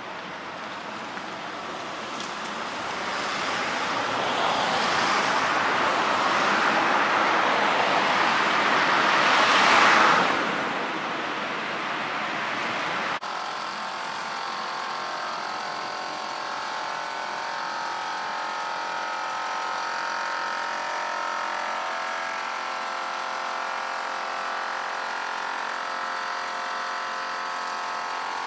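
A Manyosen tram passes, its running noise building to a peak about ten seconds in and then falling away. After an abrupt change, a steady hum with several held tones follows.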